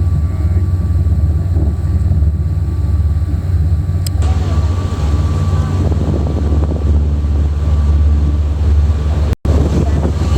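A sightseeing boat's engine droning steadily underway, with wind noise on the microphone. A click about four seconds in, after which the wind and water hiss grows louder, and the sound cuts out for an instant near the end.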